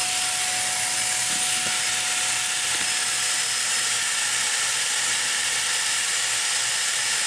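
A small motor running with a steady mid-pitched whine over an even hiss, cutting off abruptly near the end.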